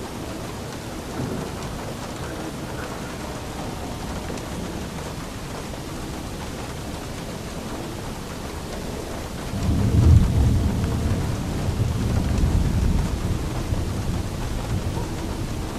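Steady rain, with a deep roll of thunder breaking in a little over halfway through and rumbling on, slowly fading.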